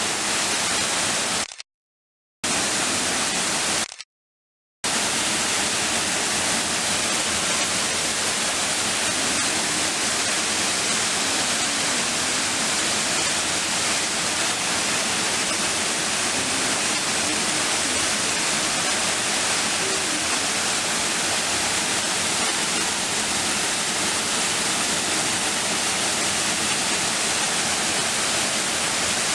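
Steady, loud rush of a waterfall, cut to dead silence twice for about a second each, around two and four seconds in.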